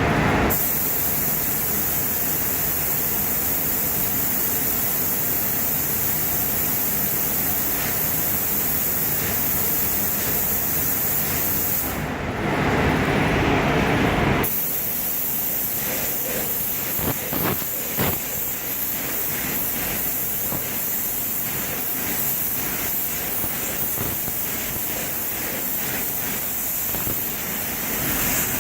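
Spray gun hissing steadily as it lays clear coat onto a motorcycle wheel with its fan pattern opened up, over the running paint booth's fan. The spray stops for about two seconds partway through, leaving the lower rush of the booth.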